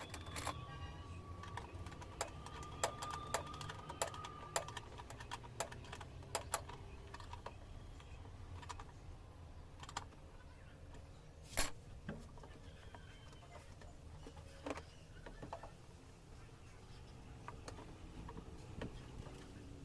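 Irregular light clicks and taps, one louder click a little past halfway, over a faint low hum.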